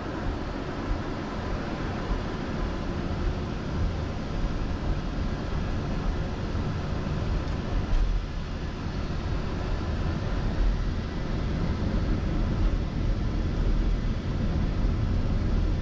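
Boeing 747-400's four turbofan engines spooling up as takeoff thrust is set at the start of the takeoff roll, heard inside the flight deck as a steady rushing noise that slowly grows louder.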